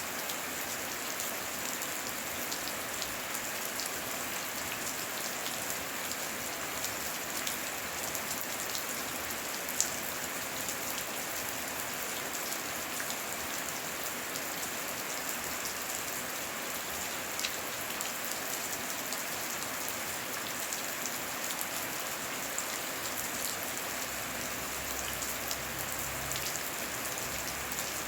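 Steady heavy rain, an even hiss with scattered individual drops pattering close by, and a couple of louder drop hits. A faint low rumble sits under it near the end.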